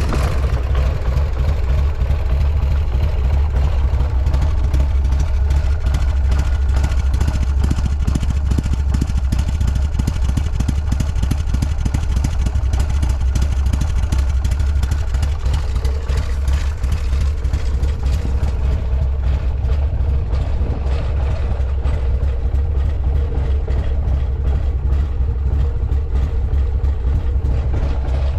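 Buell X1 Lightning's air-cooled V-twin idling steadily after a cold start, with an even low beat. The seller describes it as running with no abnormal noises.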